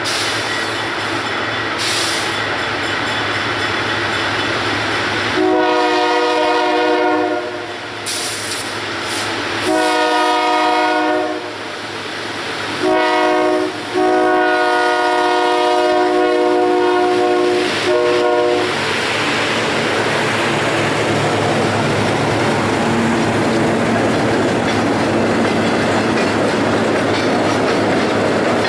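Diesel freight locomotive rumbling as it approaches, then sounding its multi-note air horn in two long blasts, a short one and a long one: the standard grade-crossing signal. After that the train's wheels clatter steadily over the rails as the train rolls by.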